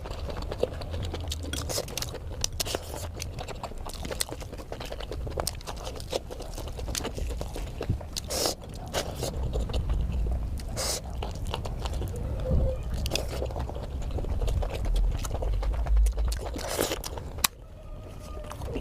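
A person chewing and biting food close to the microphone, with many short crunchy clicks and wet mouth sounds.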